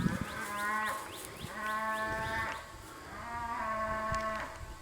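A distant cow bawling: three long calls, one after another.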